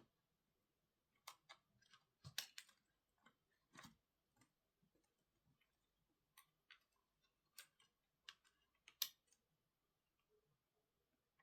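Scattered light clicks and taps of small tools and parts on a MacBook Pro being worked on by hand. They come at irregular intervals, the sharpest about two and a half seconds in and about nine seconds in.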